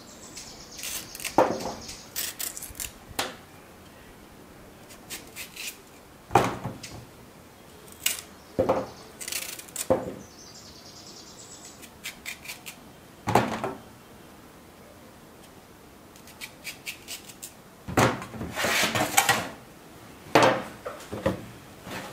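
Kitchen handling sounds: knocks and clinks of pots and utensils, with short scrapes, at scattered moments and in a busier run near the end.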